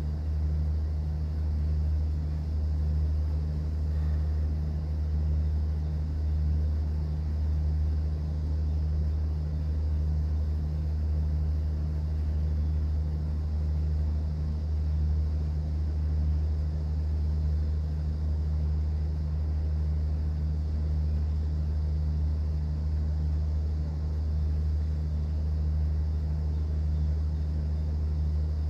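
Cruise boat engine running with a steady low drone, over an even wash of noise from the sea.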